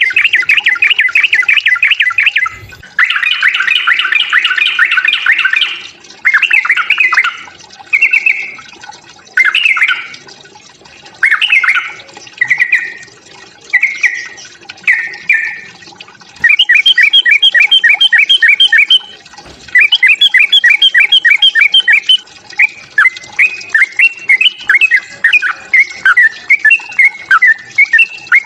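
Yellow-vented bulbul (trucukan) giving its excited fighting calls: loud bursts of fast, repeated chattering notes with short pauses between phrases. These turn into an almost unbroken run of quick notes in the second half.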